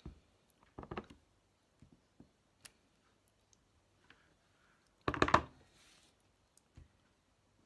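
Light clicks and knocks of a rubber stamp being inked and pressed onto a paper envelope, with a louder knock and rustle about five seconds in.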